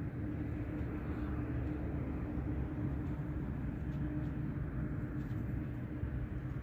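Jet engines of a Royal Canadian Air Force aircraft at the airport, a steady low rumble with a steady hum running through it.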